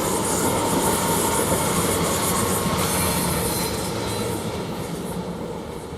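Elizabeth Line Class 345 electric train pulling out of the station, a steady rumble of wheels on rail with a high hiss, fading over the last couple of seconds as it draws away.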